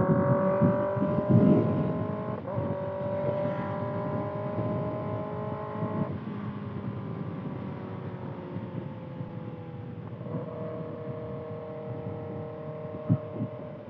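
2025 Kawasaki ZX-6R's inline-four engine through a Voodoo Racing slip-on exhaust, heard while riding. The engine note climbs slowly with a short break about two seconds in, drops off near six seconds and sags, then picks up again about ten seconds in, with wind buffeting the microphone underneath.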